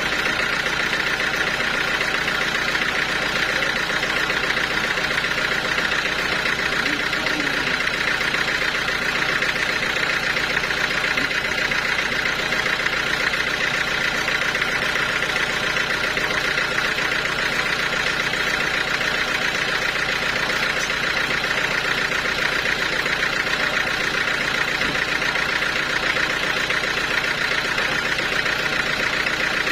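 Sawmill machinery running steadily, a constant drone with no break or change.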